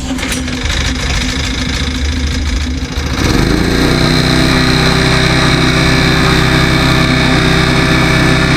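5.5 hp Briggs & Stratton single-cylinder engine on a Bobcat 440B skid steer, set on choke, catching about three seconds in after a lower, uneven rumble, then running steadily.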